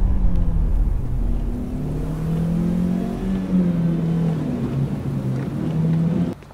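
A car engine running and revving up, its pitch wavering up and down, over a low rumble dying away at the start. It cuts off suddenly near the end.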